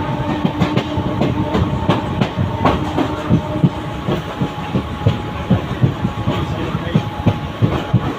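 Mumbai local electric train running along the track, its wheels clacking and knocking irregularly over rail joints above a continuous running noise and a faint steady hum.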